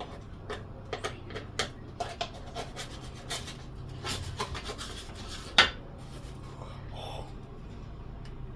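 Dishes and utensils being handled: scattered clicks and scrapes, with one sharp knock about five and a half seconds in, over a low steady hum.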